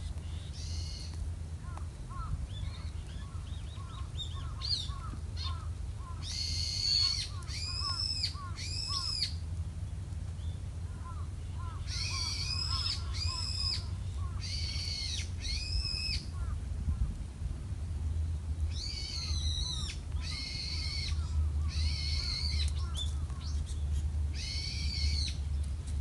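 A wild bird giving loud, harsh, shrill calls over and over, about a dozen in clusters of two or three, each rising then falling in pitch. Fainter small chirps and a steady low rumble lie underneath.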